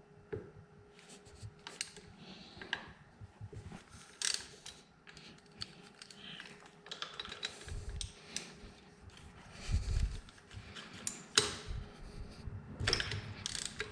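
Hand ratchet clicking in short, irregular runs as cylinder head bolts are worked loose with a half-inch socket, with a few sharper clicks near the end.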